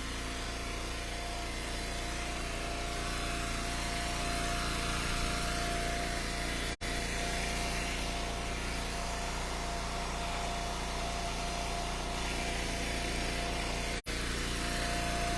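Wood splitter's gas engine running steadily. The sound cuts out completely for an instant twice.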